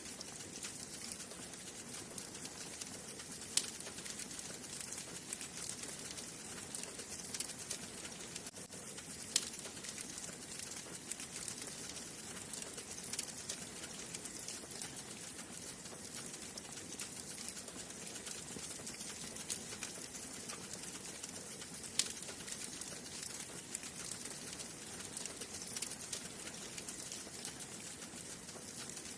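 Wood fire burning in a fireplace, crackling steadily: a constant soft hiss full of small crackles, with three louder pops spread through.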